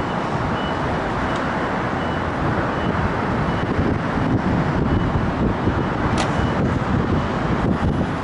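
JR West 323 series electric train pulling slowly into the platform, its running gear making a steady rumble, with wind buffeting the microphone. A faint high beep repeats quickly through the first few seconds.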